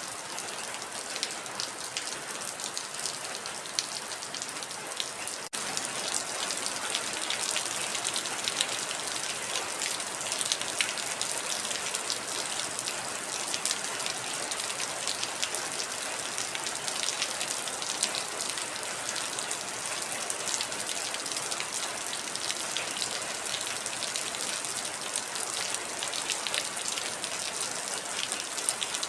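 Heavy rain falling steadily: a dense, even hiss studded with countless sharp drop impacts. About five and a half seconds in there is a momentary break, and then it comes back slightly louder.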